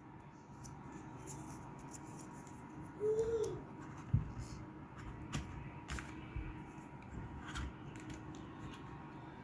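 Small plastic clicks and ticks as a Transformers Soundwave action figure is handled and its parts are moved.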